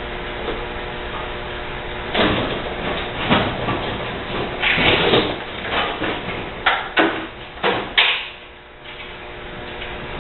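Dishwasher parts being pulled and pried apart: scraping and sliding, then a quick run of sharp knocks and clicks, over a steady background hum.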